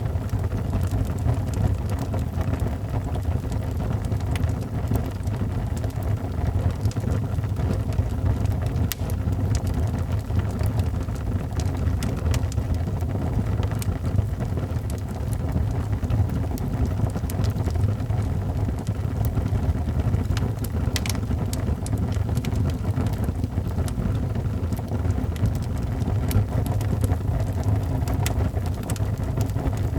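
Wood fire burning in a fireplace: a steady low rumble with scattered sharp crackles and pops, and rain falling in the background.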